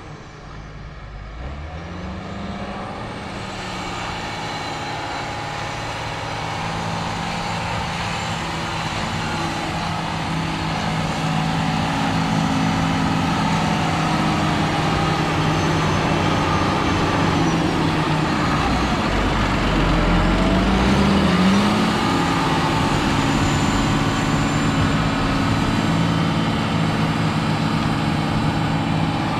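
Heavy farm-vehicle engine running steadily and growing louder as it comes closer, with a brief rev up and down about twenty seconds in.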